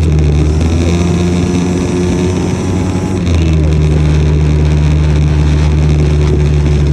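Honda Gyro Canopy scooter engine running steadily under way, changing note and getting a little louder about three seconds in.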